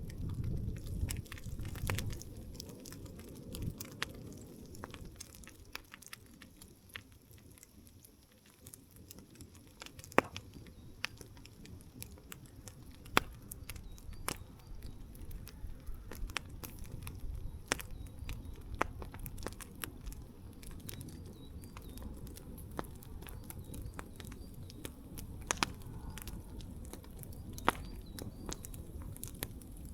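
Wood campfire crackling: scattered sharp pops and snaps, a few of them louder, over a low steady rumble.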